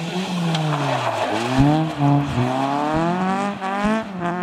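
Honda Civic hatchback's engine revving hard as the car slides on gravel, its pitch falling and rising several times and climbing steadily through the second half. Loose gravel hisses under the sliding tyres about a second in.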